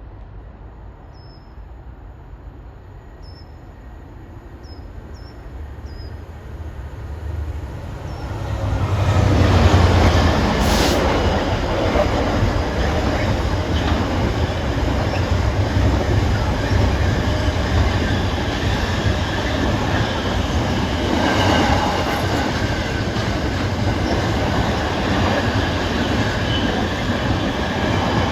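A train approaching and passing close by, building up over the first several seconds and loud from about nine seconds in, with steady rolling wheel-on-rail noise. A few short high chirps come before it arrives.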